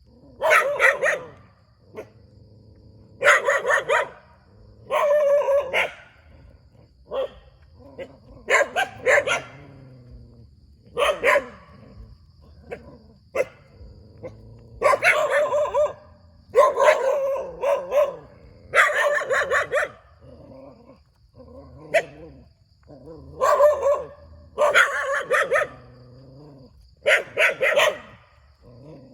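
A dog barking in repeated bouts of several quick barks, a new bout every one to three seconds.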